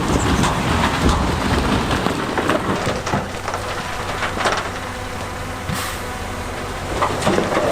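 Heavy diesel earthmoving machinery running, with stones clattering and knocking against each other and against metal.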